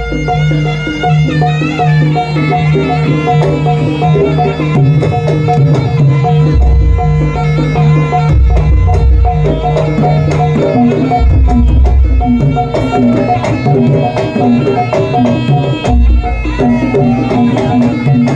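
Javanese jaranan (Turonggo horse-dance) music played live: deep drum strokes and a steadily repeating struck tone under a wavering high melody line.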